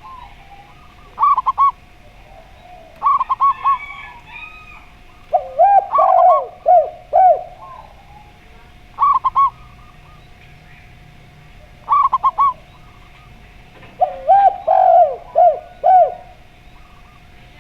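A zebra dove and a spotted dove cooing in turn. Short quick groups of three or four higher coos alternate with longer, louder phrases of lower, falling coos, twice each. A faint steady hum sits beneath.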